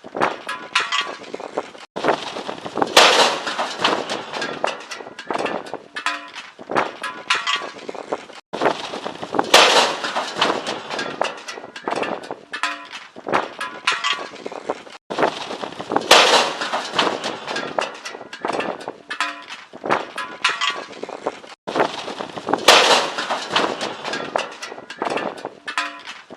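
Heavy metal barbecue grill blown over by a strong wind gust, crashing onto the ground with a loud metallic clatter, heard four times about six and a half seconds apart, over constant rattling.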